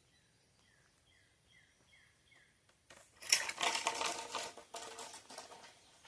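A bird calls a series of short falling chirps, about two a second. About three seconds in, a loud crackling rustle of leaves and twigs lasts about two and a half seconds and fades out.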